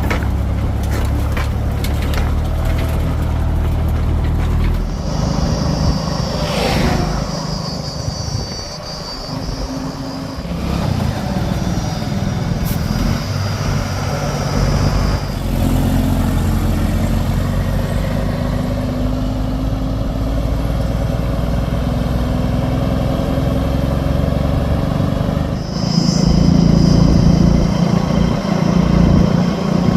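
Heavy diesel engine of earthmoving machinery running under load, its note shifting as it works. A high steady whine rises over it twice, first for about ten seconds and again near the end.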